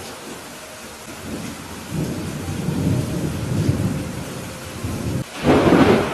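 Steady rain with a rolling thunder rumble that builds from about two seconds in, then a sharp, loud thunderclap about five and a half seconds in.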